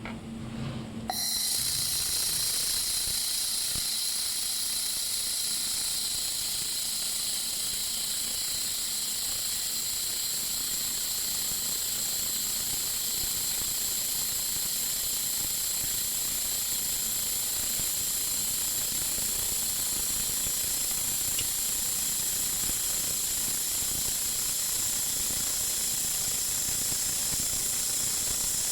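3000 W laser welder welding 6 mm carbon steel: a steady, even hiss with a high edge that starts abruptly about a second in and holds unchanged.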